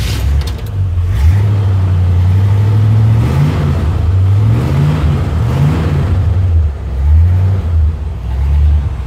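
A 1957 Chevrolet's engine, just started, idles and is revved in several short blips of the throttle. It runs without the clacking of an exhaust manifold leak, and the owner judges the leak sealed after tightening the manifold bolts.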